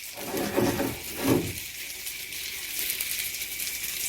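Nalistniki (filled crepe rolls) sizzling as they fry in butter in a frying pan, a steady hiss, with two brief knocks of handling about half a second and just over a second in.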